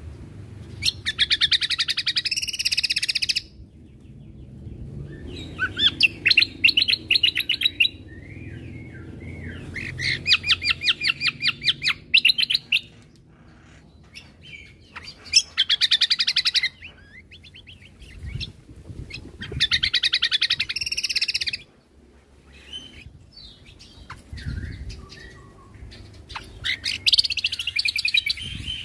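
Cucak kombo (kecial kombo) singing: loud bursts of rapid, evenly repeated high notes, each burst lasting two to three seconds and coming every few seconds, with softer scattered chirps between them.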